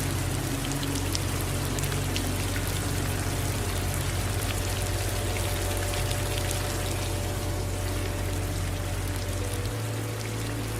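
Steady rain falling, with individual drops heard as small close ticks over an even hiss, and a low steady hum underneath.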